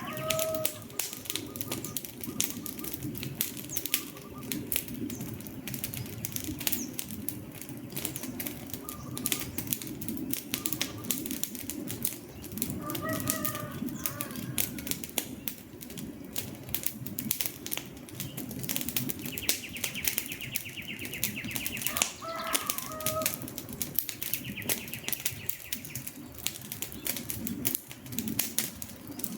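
Wood fire crackling with dense, irregular pops and snaps over a low steady rush of burning. A bird calls briefly a few times, and a high buzzing trill sounds twice in the second half.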